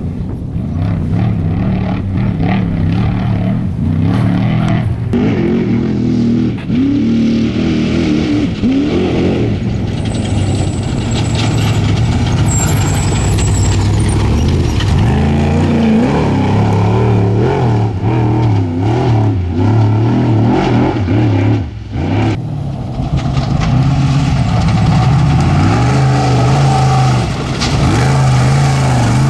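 Off-road race truck engines running hard, rising and falling in pitch as they rev up and back off. There is a brief drop about two-thirds of the way through.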